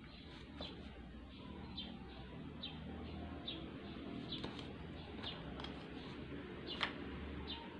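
Small birds chirping, short high chirps about once a second, with a single light tap near the end.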